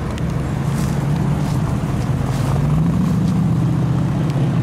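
Jensen Interceptor's big Chrysler V8 driving past at low speed, a deep steady engine note that climbs a little in pitch about halfway through as the car accelerates away.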